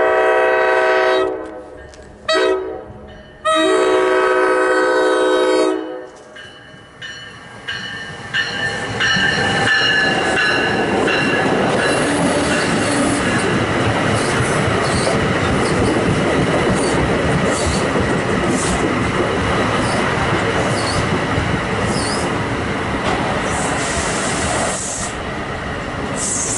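New Jersey Transit commuter train's multi-note horn sounding a long blast, a short one and another long one as it approaches. The train then passes close by: a loud steady rush of wheels on rail with rapid clicks over the rail joints and some high wheel squealing.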